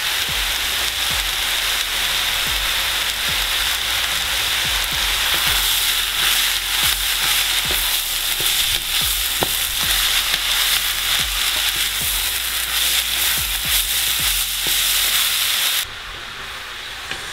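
Freshly added shredded cabbage frying in hot oil in a kazan: a loud steady sizzle with many small crackles as it is tossed and stirred with a wooden spatula. Near the end the sizzle drops suddenly to a quieter level.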